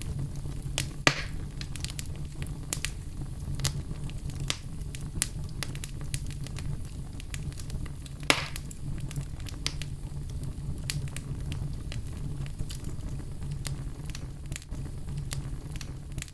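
Wood fire burning in a fireplace: a steady low rumble of flames with scattered crackles and two louder pops, one about a second in and one about eight seconds in.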